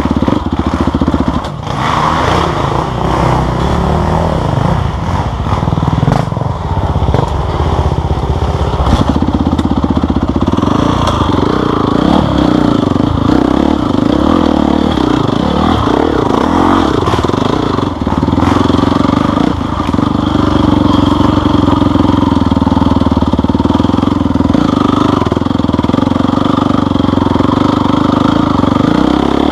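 Off-road vehicle engine running steadily, its note stepping up about nine seconds in and holding.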